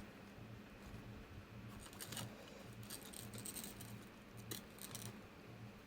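Faint light clicking and rattling of a 3D-printed articulated dragon's plastic segments shifting against each other as it is handled, a few separate clicks standing out.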